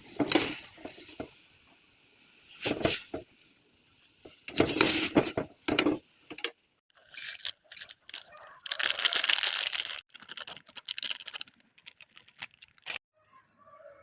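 Plastic packaging crinkling and tearing in several short bursts with pauses between them, the longest about two-thirds of the way in, as packets are opened for cooking instant fried noodles.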